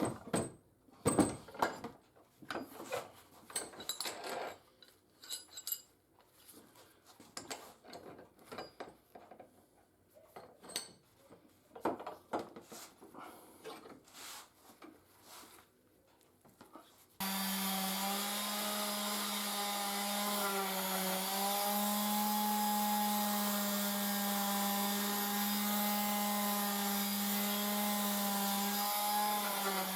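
Scattered knocks and scraping of parts being handled, then, about 17 seconds in, a power tool starts abruptly. It runs steadily with a constant hum and its overtones, its pitch dipping slightly now and then as it is loaded.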